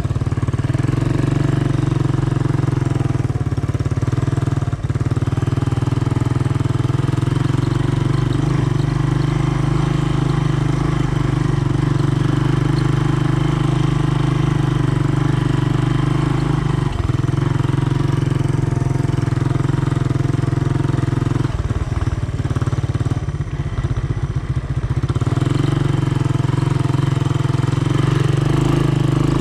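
Honda ATC 200M three-wheeler's single-cylinder four-stroke engine running steadily under throttle while riding. About three-quarters of the way through, its note drops and turns rough and uneven for a few seconds, then picks back up.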